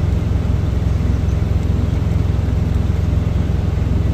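Diesel truck engine idling: a steady, loud low rumble with a fast, even pulse.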